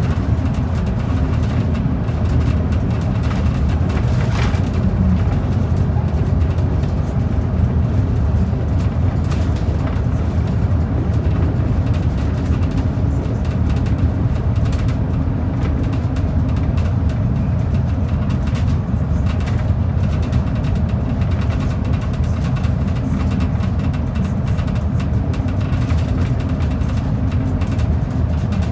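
Steady low rumble of a transit bus under way, heard from inside the passenger cabin: engine and road noise at an even level.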